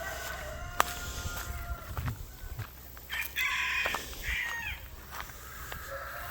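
Poultry calling, with a louder run of calls about three seconds in and a sharp click about a second in.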